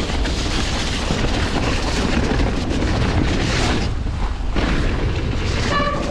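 Wind rumble on the camera microphone and tyres churning through deep mud on a fast mountain-bike descent. A brief pitched squeal comes in near the end.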